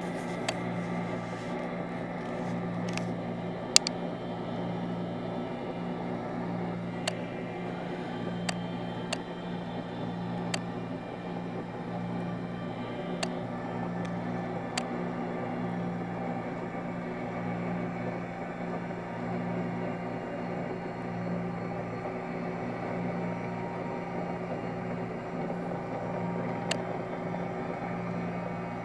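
A steady electrical hum with a faint hiss, broken by a sharp click now and then.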